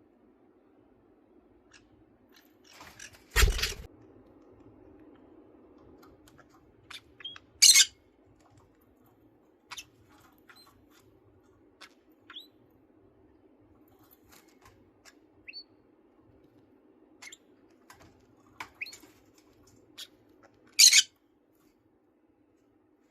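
Pet parakeets, a budgerigar and a green-cheeked conure, giving scattered short chirps and two sharp loud calls. A thump about three seconds in, and a faint steady hum underneath.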